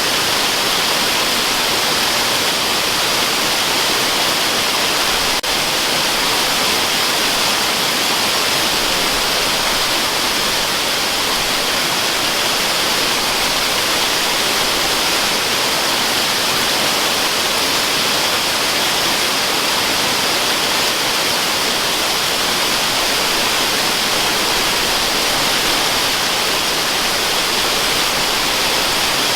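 Waterfall: a steady, unbroken rush of falling water, heavy in the upper hiss.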